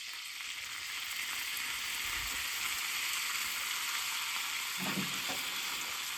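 Orange chicken frying in a hot pan on a camp stove: a steady sizzle that builds over the first second, then holds.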